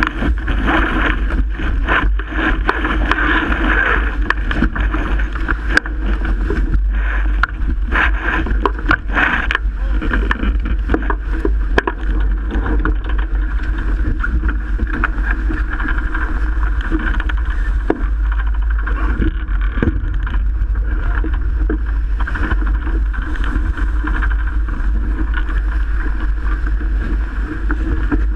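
Strong wind buffeting the microphone aboard a Melges 24 sailboat sailing in 30-knot wind, over a steady rush of water along the hull, with frequent short slaps and knocks.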